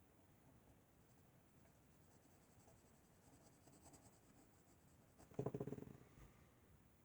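Pencil scratching faintly on paper during drawing, with a louder cluster of rapid strokes for about half a second near the end.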